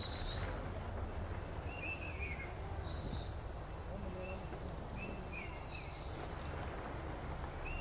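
Small birds chirping in short repeated phrases every few seconds, over a steady low background rumble.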